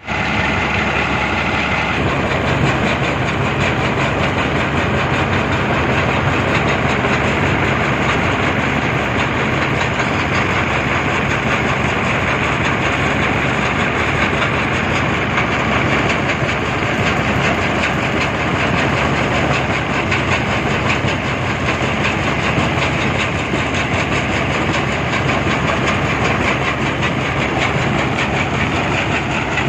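Brick-breaking machine running, a loud, steady, dense rattling clatter over a low engine drone.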